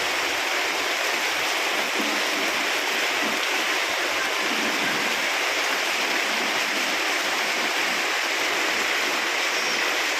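Torrential rain pouring steadily, an even hiss of falling and running water.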